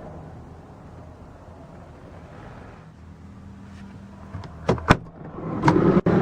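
Low steady background hum, then from about four seconds in a series of clicks and clunks, loudest near five seconds and again near the end, as a minivan's door or seat fittings are handled.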